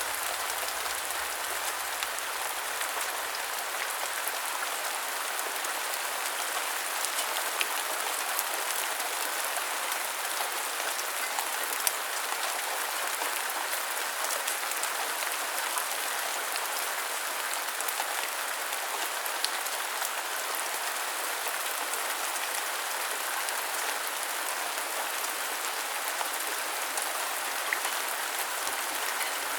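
Steady rain falling, an even hiss with scattered sharp drop ticks now and then.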